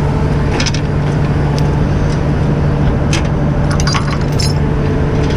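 Truck engine idling steadily, with scattered light clicks and knocks over it.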